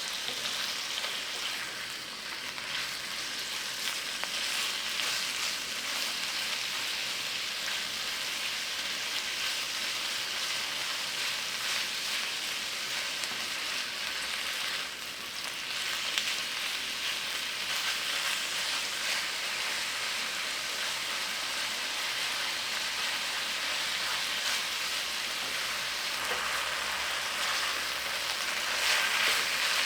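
Food frying in oil in a pan, a steady sizzle that dips briefly about halfway through and grows a little louder near the end.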